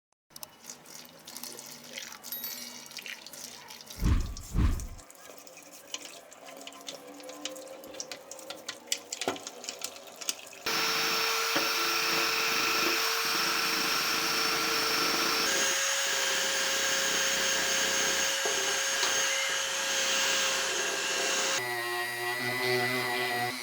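Scattered clicks and scraping of hand work on small metal parts, with a heavier thump about four seconds in. About halfway through, a small electric tool starts and runs steadily with a whine, its tone changing twice.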